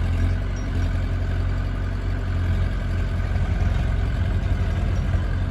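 Heavy diesel engine of the sand-loading machinery running steadily, a low, even drone with no change in speed.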